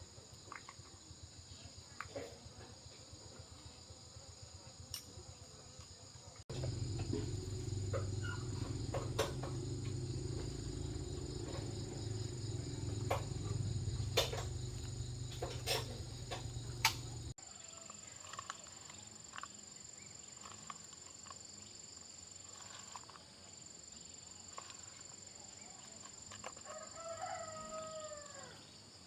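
Insects buzzing steadily, with scattered light metallic clicks and taps. About a third of the way in a low steady hum starts abruptly and runs for about ten seconds before cutting off. A rooster crows near the end.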